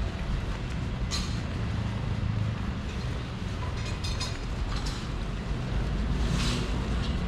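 Outdoor street ambience: a steady low rumble of traffic, with short hissing swells about a second in and again near the end.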